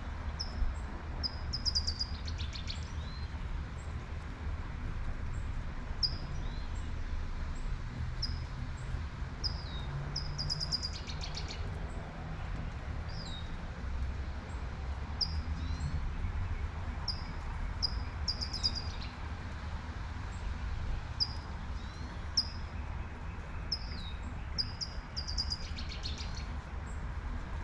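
A songbird chirping over and over in short high notes, breaking into a buzzy trill about every eight seconds, four times in all. Under it a light rain hisses evenly and a steady low rumble of traffic runs throughout.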